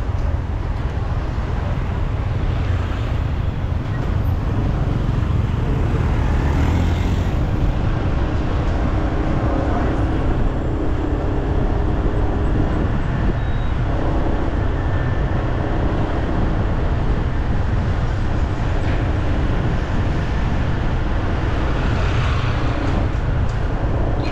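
Steady city street traffic noise: a continuous low rumble of vehicles with no single event standing out.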